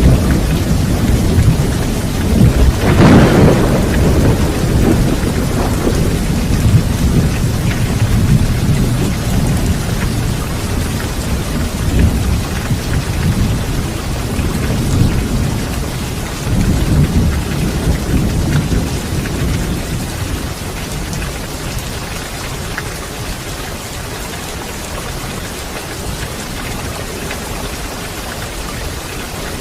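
Thunderstorm: steady heavy rain with a loud peal of thunder about three seconds in, then lower rolling rumbles that die away, leaving mostly the rain over the second half.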